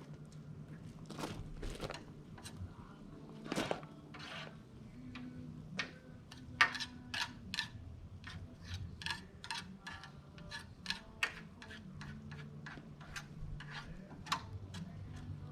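A string of irregular sharp clicks and taps, thicker and louder in the second half, over a faint steady low hum.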